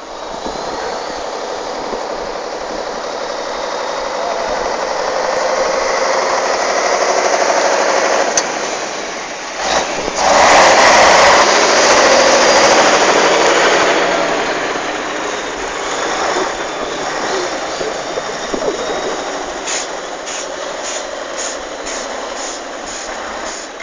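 Heavy trial truck's engine working hard, swelling to its loudest about ten seconds in and then easing off. Near the end comes a run of short regular clicks, about two a second.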